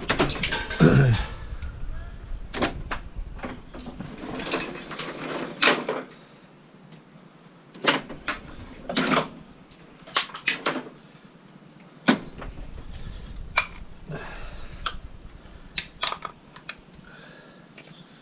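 Irregular clicks, knocks and short scrapes of scrap metal being handled and pulled apart by hand.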